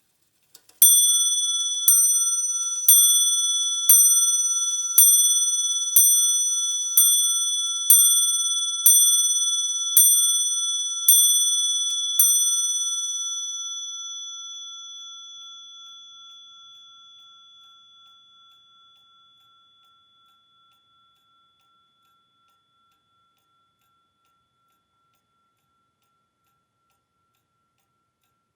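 A clock's bell striking twelve times, about one bright, high ringing strike a second, the hours of twelve o'clock. After the last strike the ring dies away slowly over several seconds.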